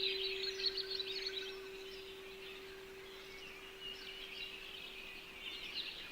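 Songbirds chirping and twittering over the single steady hum of a singing bowl, which slowly dies away near the end.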